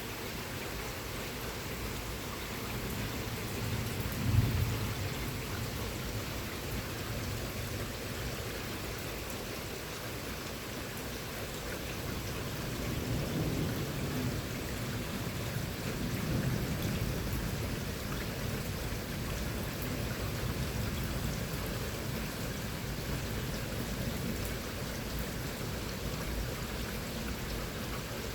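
Rain falling steadily in a thunderstorm, with a sharp clap of thunder about four seconds in and low rumbles of thunder rolling around the middle.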